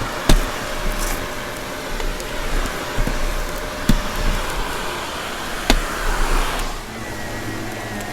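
Vacuum cleaner running and sucking up crunchy debris: a steady rushing noise with sharp clicks of bits being drawn in, three of them loud, and low bumps. Near the end it settles to a quieter steady hum with a faint whine.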